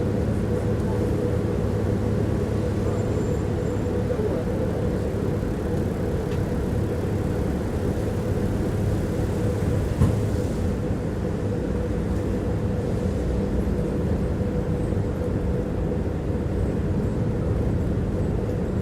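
Tram running along its rails: a steady low rumble with a faint steady whine, and one sharp knock of the wheels about halfway through.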